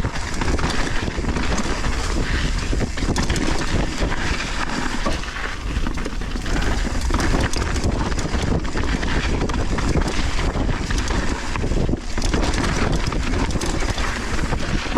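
Wind buffeting the microphone over the continuous crunch and clatter of a Specialized Status mountain bike riding fast downhill on loose volcanic soil, with many small knocks and rattles from the tyres and frame over the rough trail.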